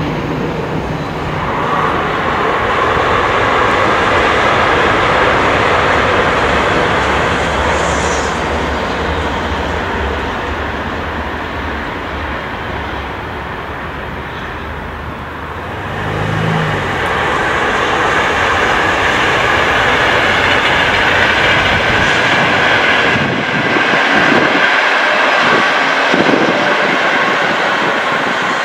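Italian high-speed passenger trains passing at speed on a viaduct: a loud, steady rush of wheel, rail and air noise. It eases slightly, then swells again about halfway through as another train comes by.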